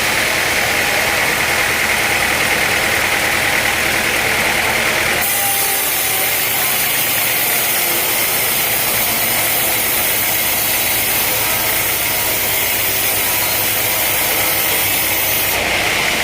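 Sawmill machinery running steadily: an engine with a constant mechanical hiss. About five seconds in the sound shifts to a brighter, higher hiss, and shifts back near the end.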